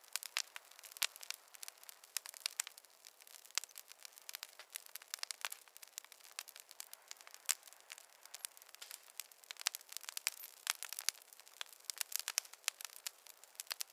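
Wood fire crackling, with many quick, irregular snaps and pops over a faint hiss.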